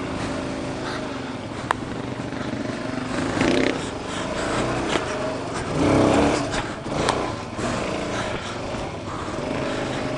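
Suzuki DR-Z400 single-cylinder dual-sport motorcycle engine running at low revs over rough rock, opened up in short swells about three and a half and six seconds in. Knocks and clatter come from the bike working over the rocks, with a sharp click about two seconds in.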